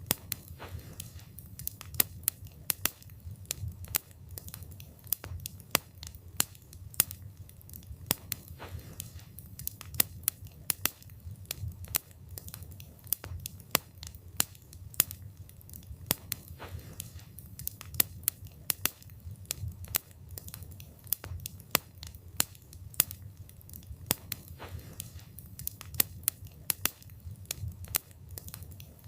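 Wood campfire burning, with frequent sharp crackles and pops from the wood, several a second and uneven in loudness, over a steady low rumble of the flames.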